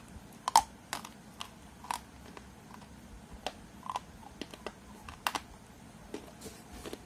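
Close-miked crunching: sharp, dry cracks at an irregular pace, two or three a second, from biting and chewing a hard, brittle object.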